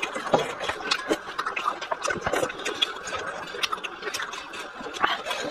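Close-miked eating sounds: chewing of cold shredded cucumber and noodles, with many small sharp crunches and wet mouth clicks coming in a quick irregular rhythm.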